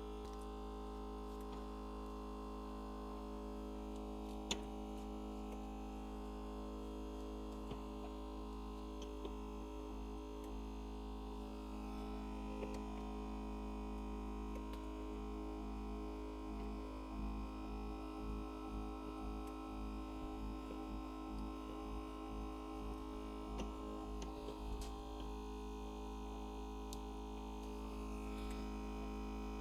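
Steady electrical hum of an LCD screen separator machine with its vacuum pump running, holding the same few tones throughout. Faint irregular scraping runs through the middle, from the wire being drawn through the adhesive under the screen glass.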